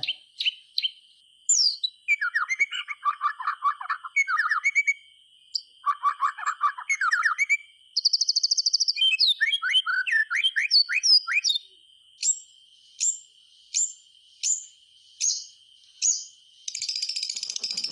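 White-rumped shama (murai batu) singing a varied, rapid song of trills and warbled whistled phrases. From about two-thirds of the way in comes a run of about seven evenly spaced sharp, falling notes, then a harsh buzzy rattle near the end. A faint steady high whine lies underneath.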